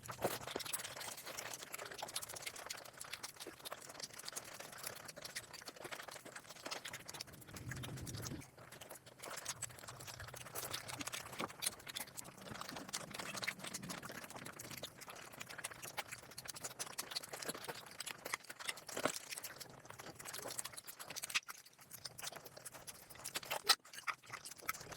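Close-up eating sounds: dense, irregular chewing and crunching clicks with small wet mouth noises.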